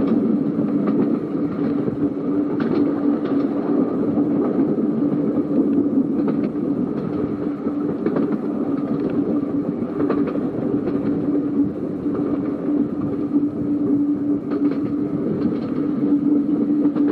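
Seaton Tramway electric tram running along the track, with a steady hum and occasional sharp clicks from the wheels on the rails.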